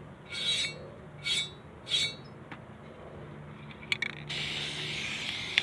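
Three short scrapes of metal parts being handled in the grill, then a couple of sharp clicks about four seconds in and a steady hiss that starts just after: the gas BBQ burner being lit.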